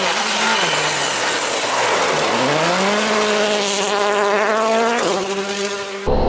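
World Rally Championship car's engine: the revs fall for about two seconds as it slows, then climb steadily as it accelerates away, with a gear change about five seconds in. The sound cuts off abruptly near the end.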